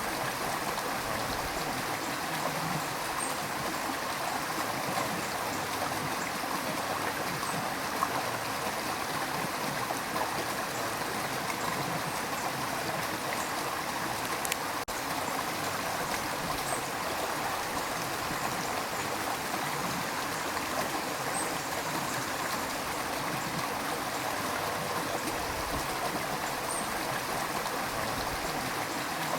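A river's rushing water running in a steady, unbroken stream.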